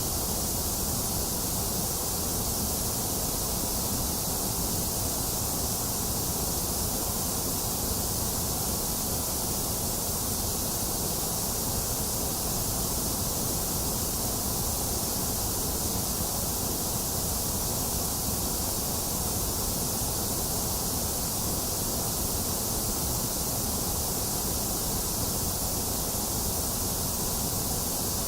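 Box fan running together with steady rain: one continuous, even hiss with a low hum beneath it, unchanging throughout, with no thunder.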